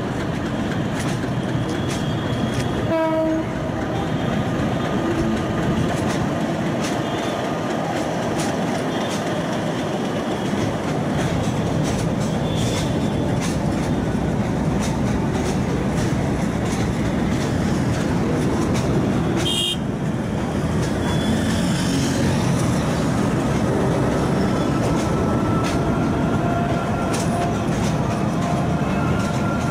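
Railway train noise: a steady rumble, with a short horn tone about three seconds in and a faint tone slowly rising in pitch in the last third.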